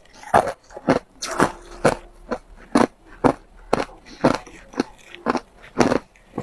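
Ice being chewed: sharp, crisp crunches, about two a second, as pieces of ice crack between the teeth.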